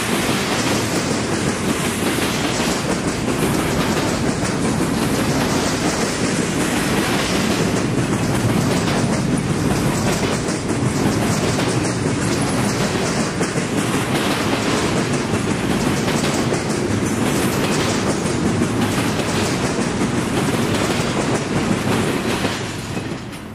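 Double-stack intermodal freight cars rolling past, a steady rumble with wheels clattering over the rails. The sound fades near the end as the last cars go by.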